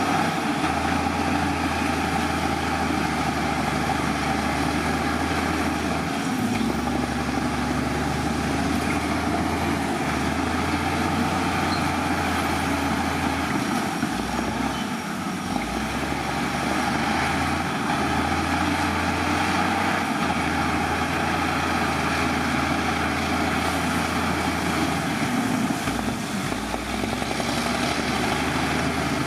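Heavy diesel earthmoving machinery running steadily under work, its low engine note shifting every few seconds.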